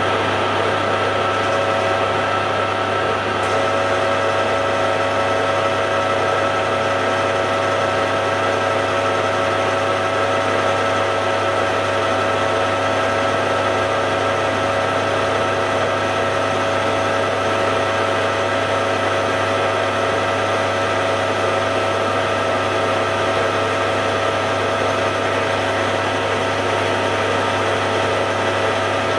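Hare and Forbes AL335 metal lathe running at a steady speed during a light tidy-up cut: a steady hum with several steady higher tones over it.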